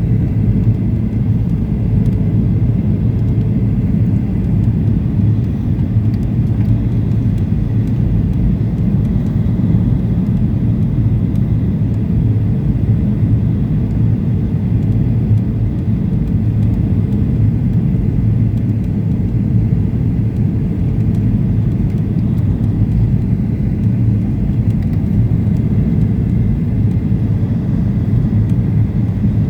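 Steady cabin rumble of a Boeing 737-800 airliner, the noise of its engines and the airflow around the fuselage, with a faint steady high whine.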